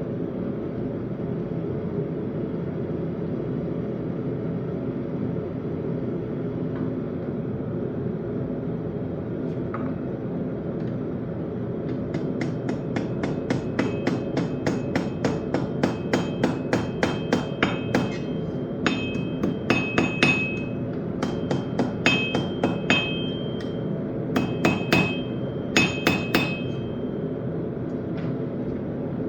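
Hammer blows on steel at an anvil while forging a knife: from about 12 seconds in come quick runs of strikes, several a second, some leaving a short metallic ring. A steady low rumble runs underneath.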